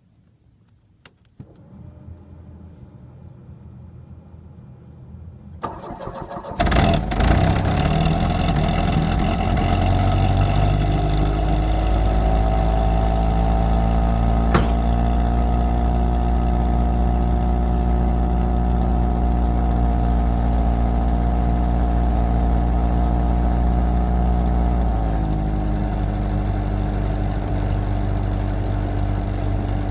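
Cold start of a 1991 Pontiac Sunbird in freezing weather. A click about a second in is followed by a faint hum. Near six seconds the starter cranks briefly and the engine catches, then runs at a fast cold idle that slowly eases down and drops to a lower idle about 25 seconds in.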